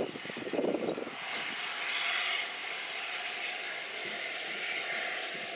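A4 Pacific steam locomotive running light, giving off a steady hiss of steam, with a louder burst of sound in the first second.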